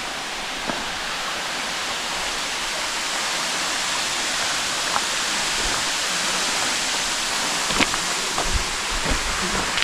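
Waterfall's steady rush of falling water. A few faint knocks and a low rumble come in near the end.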